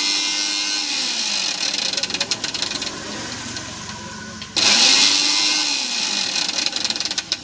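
Vary Ezi mixer grinder motor running with the jar fitted, its newly replaced coupling driving the jar. The sound fades over the first few seconds, then starts again suddenly about four and a half seconds in.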